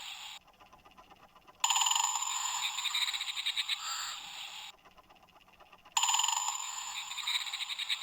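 Bird-song clock playing its recorded great spotted woodpecker sound through a small speaker: two bursts of rapid, densely pulsing sound, each about three seconds long, with a short pause between them.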